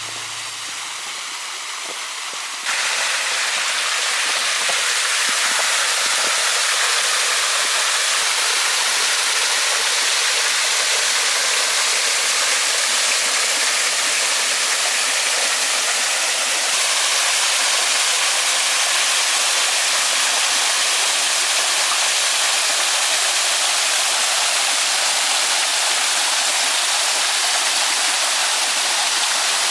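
A steady, even rushing hiss that starts abruptly about three seconds in, just after music fades out, and holds without change.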